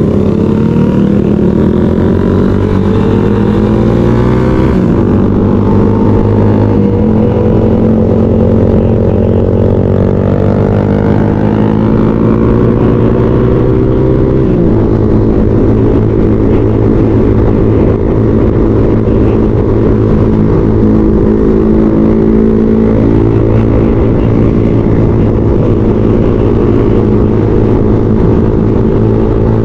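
Motorcycle engine pulling hard through the gears as the rider rides: the pitch climbs, changes at a shift about five seconds in, climbs again, drops at another shift near the middle, then holds a steady cruise.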